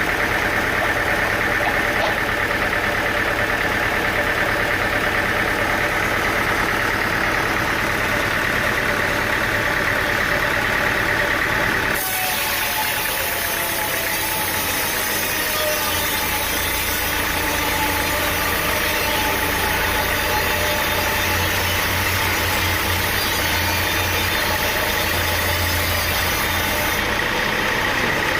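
An engine running steadily, with an abrupt change in the machine sound about twelve seconds in.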